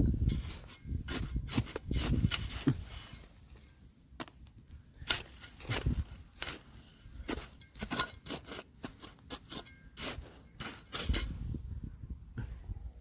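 Stones and gravel knocking and scraping in irregular sharp clicks as riverbed gravel is dug through, with a low rumble at the start and again near the end.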